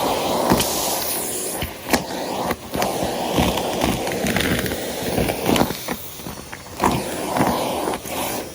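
Numatic Henry tub vacuum cleaner running and sucking up debris, with frequent clicks and rattles as crunchy bits go up the hose; the loudness rises and dips as the nozzle moves through the pile.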